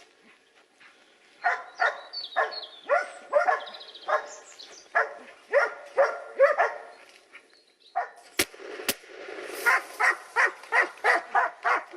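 Hunting dogs barking at a bayed wild boar, about two barks a second, then two gunshots half a second apart about eight seconds in, after which the dogs bark again, faster.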